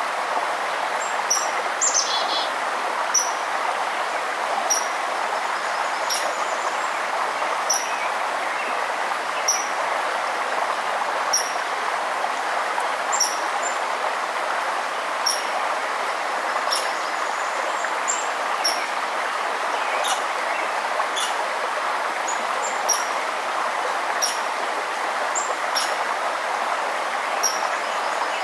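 Steady rushing of a forest stream, with a bird repeating a short high chirp about once a second over it and a few faint sharp ticks.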